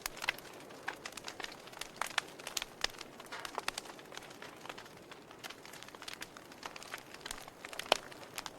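Wood fire crackling: irregular snaps and pops over a soft steady hiss, with one louder pop near the end.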